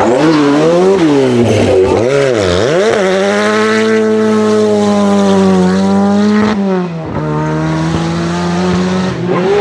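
Rally car engine blipped up and down several times in quick succession, then held at high revs for a few seconds, with a short drop in revs about two-thirds of the way through before it is held high again.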